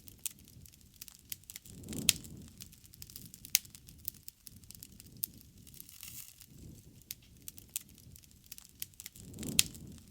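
Wood bonfire crackling, with frequent sharp pops and snaps scattered irregularly. Two low rumbling swells come through, about two seconds in and near the end.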